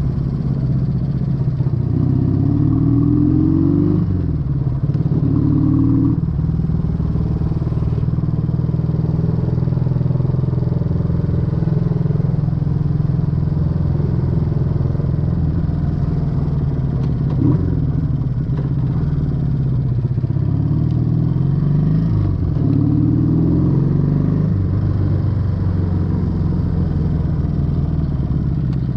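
Exhaust of a 1968 Honda Dream CD250 twin under way, its pitch climbing as it accelerates through the gears. The note dips briefly at each shift: a few seconds in, and again about two-thirds through before climbing once more.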